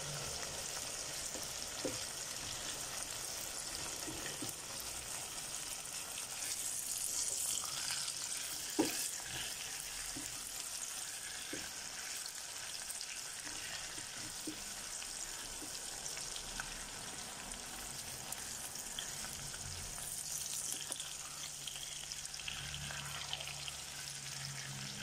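Chicken pieces, carrots and onion sizzling in oil in a nonstick pan, a steady high hiss, with a few clicks as a spatula turns and stirs them; the sharpest click comes about nine seconds in.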